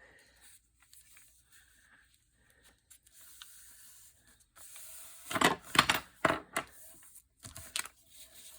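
Old book-page paper being rubbed and handled: faint scratchy rustling, then several louder short scraping, rustling strokes in the second half.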